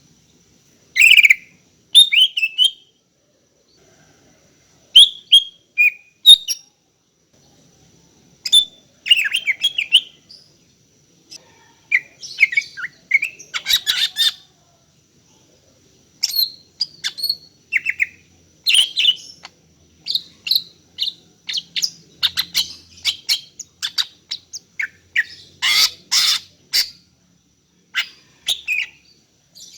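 Female greater green leafbird (cucak ijo) calling for a male, in its breeding-condition call: bouts of short, sharp chirps and whistled notes with pauses of one to two seconds between them at first, then almost non-stop chatter from about halfway through.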